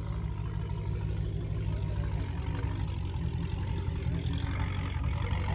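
Car engine running with a steady deep rumble, getting slightly louder near the end.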